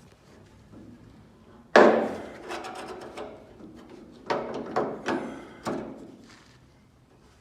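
A hammer striking car-door sheet steel over a steel lever held behind it as a dolly, working down a crease in the panel edge. About seven sharp metallic strikes: the first is the loudest and rings on, and the rest follow irregularly over the next four seconds.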